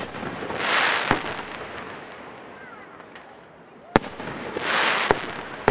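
Fireworks display: sharp bangs of bursting shells, coming in two pairs about three seconds apart. Between the bangs of each pair a hissing rush swells and fades.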